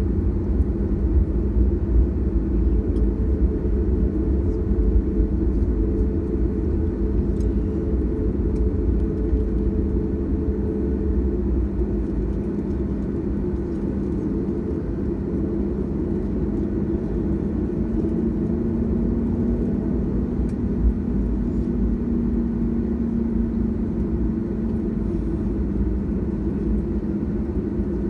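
Cabin noise of a Boeing 737-800: a steady low rumble with the hum of its twin CFM56 jet engines at low power. One engine tone fades out about a third of the way in, and another rises slightly in pitch about two thirds through.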